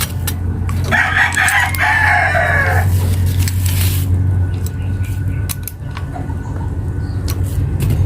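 A rooster crows once, for about two seconds starting about a second in, over a steady low hum.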